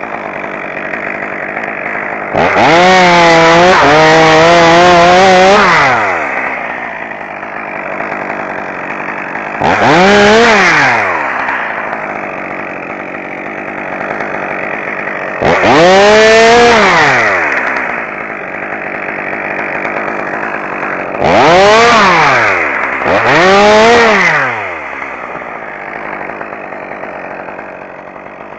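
Two-stroke chainsaw idling, brought up to full throttle five times, each time rising in pitch, holding, then dropping back to idle. The first burst is the longest, and the last two come close together.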